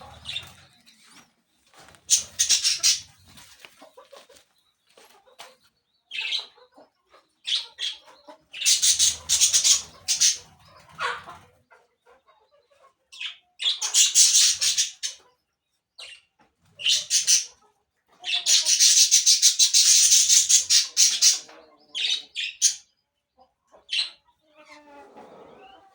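Parakeets giving harsh, high-pitched calls in irregular bursts, some short and some lasting a second or more, the longest about three-quarters of the way through.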